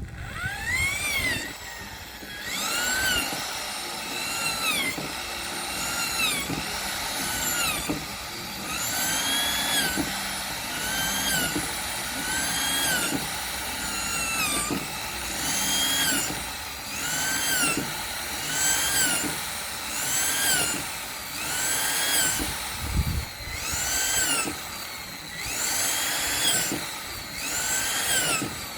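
Electric drill whining up and down in repeated pulses, about one a second, as the trigger is squeezed and let off.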